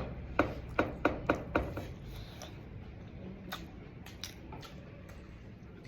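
Eating sounds during a mukbang of pork and rice eaten by hand: a quick run of about six short clicks and taps in the first second and a half, then a couple of scattered ones, over a steady low hum.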